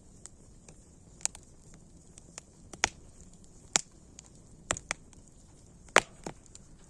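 Wood fire crackling: sharp pops and snaps at irregular intervals, about seven of them loud, with fainter ticks between, over a faint steady hiss.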